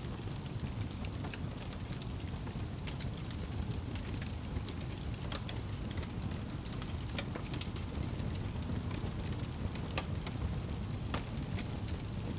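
Fire crackling with scattered sharp pops over a steady wash of rain and a low rumble.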